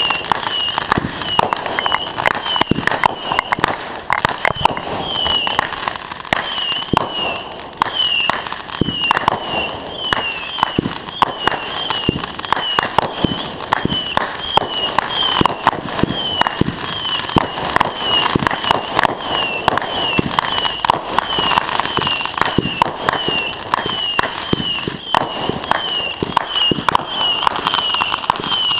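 Consumer fireworks going off in a dense, continuous run of small bangs and crackles. A short high chirp repeats about once a second throughout.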